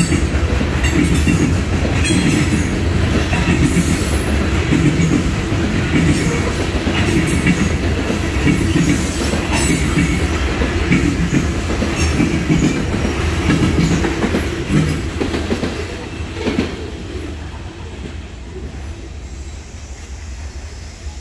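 Covered hopper cars of a freight grain train rolling past, steel wheels clacking over the rail joints with a steady rumble. About sixteen seconds in the last cars pass, and the sound drops and fades as the train moves away.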